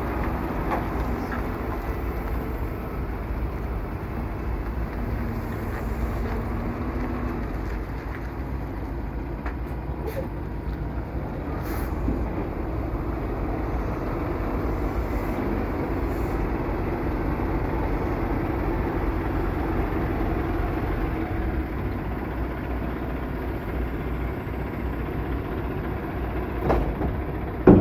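Semi-truck diesel engine running steadily with a low rumble and hum. There is a sharp knock near the end.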